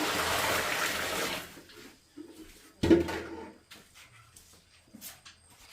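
Running or pouring water that stops about a second and a half in, followed by a single loud knock about a second later and a few faint clicks.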